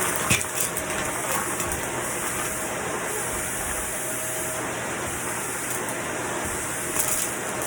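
Vacuum cleaner running steadily with a constant rushing whir, a few light clicks about half a second in and near the end.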